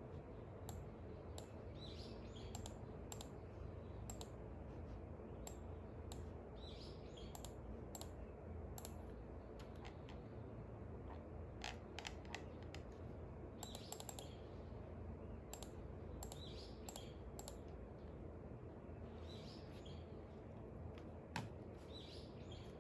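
Small birds chirping in short bursts every few seconds, over scattered light clicks and taps from the desk. A steady low hum runs underneath, and one sharper click comes near the end.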